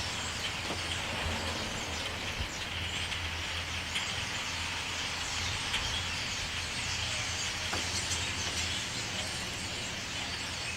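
A large flock of birds calling all at once in the trees, a dense, steady chatter of many overlapping chirps, with a steady low rumble underneath.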